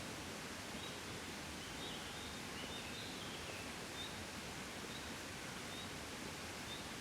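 Gentle breeze blowing steadily, a soft even rustling wind noise. Through it a small bird gives short high chirps about once a second, with a brief twittering in the middle.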